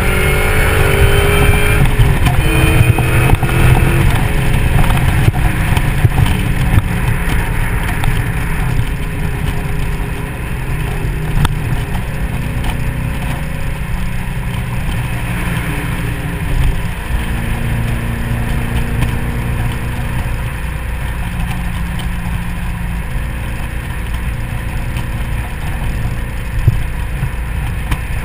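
2003 SVT Mustang Cobra's supercharged 4.6-litre V8 pulling at freeway speed, with heavy wind rush and road noise over the open-top car. The engine note shifts and falls in pitch in the first few seconds, then holds steadier and a little quieter.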